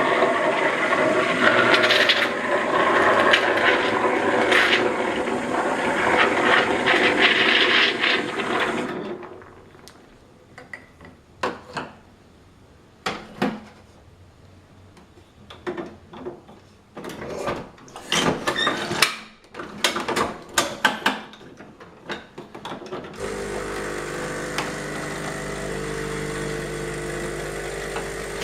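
Saeco MonteCarlo Automatica super-automatic espresso machine going through a brew cycle. Its built-in coffee grinder runs for about nine seconds, then come a series of clicks and clunks from the brewing mechanism, and about two-thirds of the way through its vibratory pump starts up with a steady hum.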